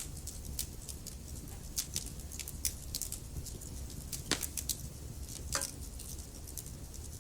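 Wood fire burning in a fireplace, crackling with irregular sharp snaps and a couple of louder pops about four and five and a half seconds in, over a low, steady rumble.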